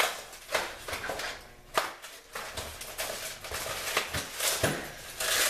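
Compressor parts and packaging being handled: a string of irregular knocks, clicks and rustles, with the sharpest knocks near the start, a little under two seconds in, and around four to five seconds in.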